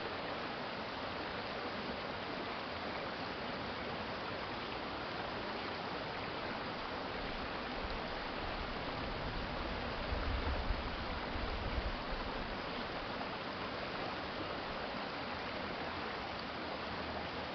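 Urban stream water flowing steadily over its bed, a continuous even rush. About ten seconds in, a low rumble rises underneath it for roughly two seconds.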